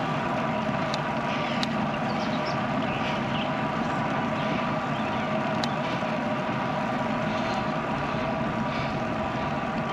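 Steady riding noise of a bicycle rolling along a paved road: tyre hum and air rushing past a bike-mounted action camera's microphone, at an even level with a few faint high ticks.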